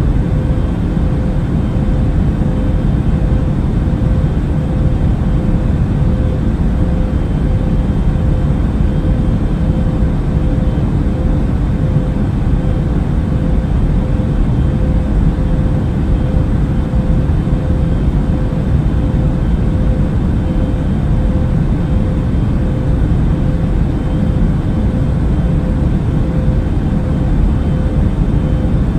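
Passenger airplane cabin noise in flight: a steady, unchanging low drone of engines and rushing air with a constant hum running through it.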